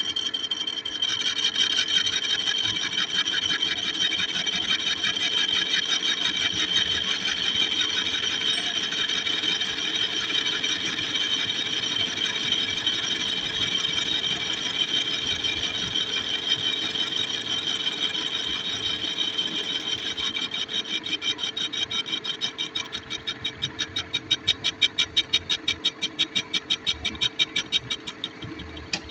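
Metal lathe cutting tool turning a steel track roller, giving a steady rasping cut with a high ringing whine. Near the end the cut breaks into a regular pulsing.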